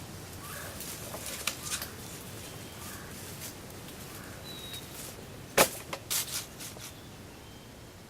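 A series of sharp clicks and crackles: a small cluster between one and two seconds in, and the loudest single click at about five and a half seconds followed by a few quicker ones. Faint, brief bird chirps sound in the background.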